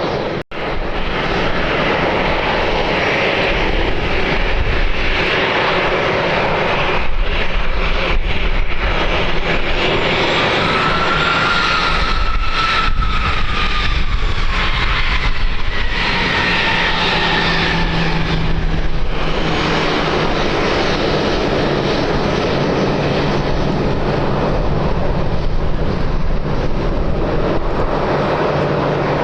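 Airliner passing on its landing approach, a steady engine rush with a whine that falls in pitch as it goes by, from about ten seconds in to about nineteen seconds in.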